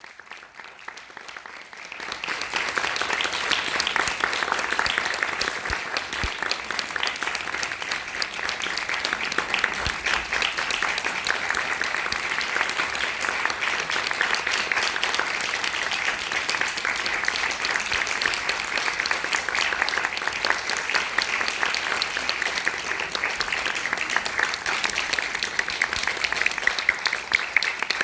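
Theatre audience applauding: dense clapping that swells in about two seconds in and then holds steadily.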